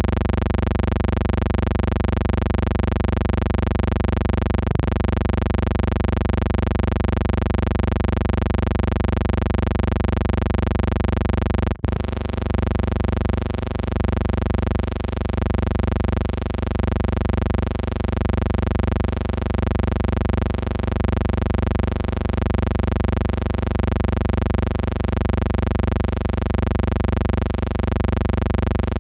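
Steady electrical hum and buzz over a low rumble, from the blank soundtrack of a silent 16mm film transfer. It briefly drops out for an instant about twelve seconds in, then carries on with a slight unevenness.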